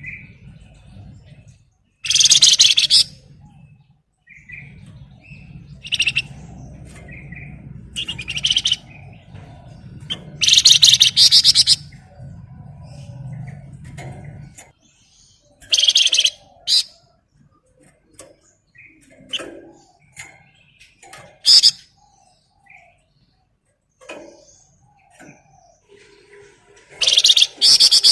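Flamboyan songbird singing in loud bursts of rapid, dense trilling, about six bursts each lasting up to a second, with short quieter chirps between them. A low steady hum runs underneath for about the first half, then stops.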